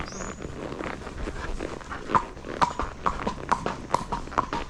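A horse's hooves clip-clopping at a walk: a regular beat of short sharp knocks, about two to three a second, becoming clearer about halfway through. A brief high chirp sounds at the very start.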